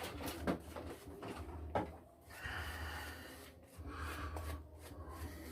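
Badger shaving brush being loaded, its bristles rubbing on shaving soap in two soft scratchy spells, after a couple of light knocks.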